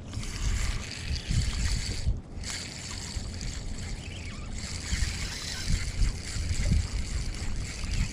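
Wind gusting on the microphone over a steady wash of splashing water.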